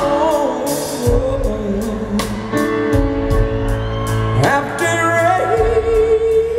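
Live rock band playing a slow song: a steady drum beat, bass and guitar under long held, wavering lead notes, one gliding slowly upward near the end.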